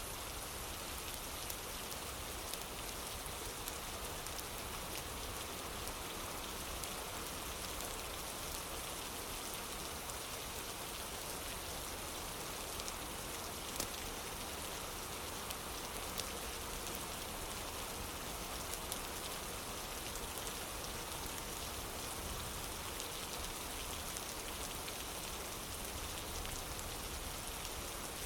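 Steady rain falling on a wooden porch, an even hiss with individual drops, and a few sharp clicks scattered through it that may be fireplace crackle.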